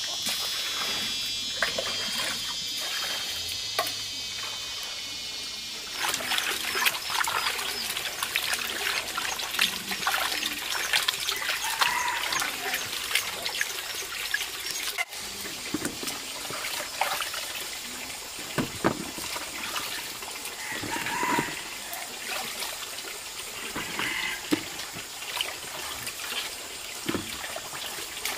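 Water splashing and trickling in irregular spurts, with steady high tones over the first few seconds.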